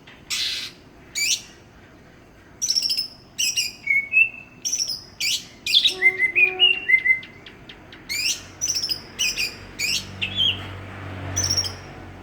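Cucak ijo (green leafbird) singing a run of short, sharp, sweeping whistled notes. About six seconds in there is a quicker string of lower chattering notes.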